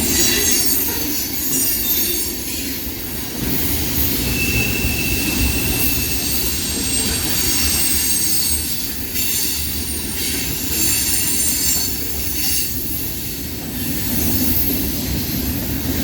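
Freight cars of a long mixed freight train rolling past on steel wheels, a steady rumble and rattle of wheels on rail. About four seconds in, a thin high wheel squeal is held for a couple of seconds.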